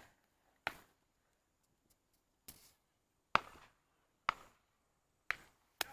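Sharp chopping or knocking strikes, six single blows at uneven spacing of roughly a second, the one about two and a half seconds in weaker than the rest.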